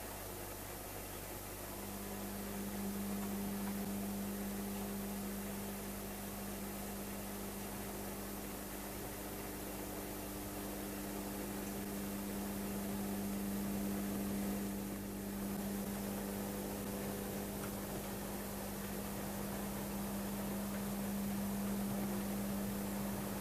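OO gauge model Class 35 Hymek diesel locomotive running: a steady low hum that comes in about two seconds in and holds, over a constant hiss.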